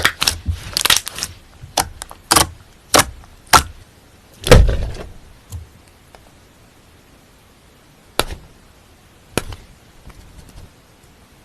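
Slime being handled: a quick run of crackling clicks, then single sharp pops and clicks spaced out, with one heavier thud about four and a half seconds in, before it thins to a few faint clicks.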